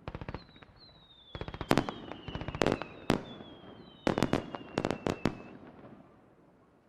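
Fireworks display: sharp bangs and fast volleys of crackling reports, with high whistles that slowly fall in pitch, dying away near the end.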